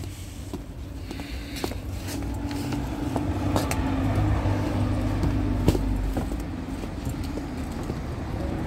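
A motor vehicle's engine running nearby, a steady low hum that grows louder over a few seconds and then eases off. There are a few sharp clicks along with it.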